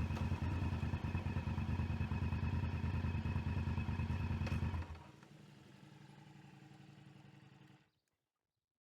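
Motorcycle engine running steadily at low revs, cut off abruptly about five seconds in. A faint steady sound lingers for about three seconds, then the sound stops entirely.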